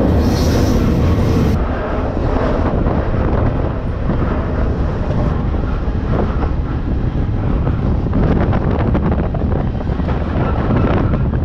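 Freight train car rolling along the track, heard from on board: a steady low rumble of wheels on rail. From about the middle on, it is shot through with rattling clicks and clanks.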